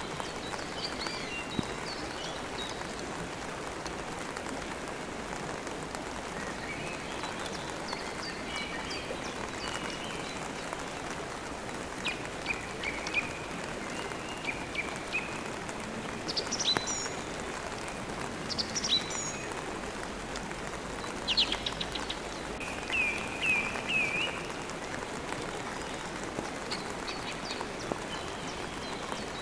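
Steady rain falling, with birds chirping and trilling over it in short calls that come more often and louder in the middle of the stretch.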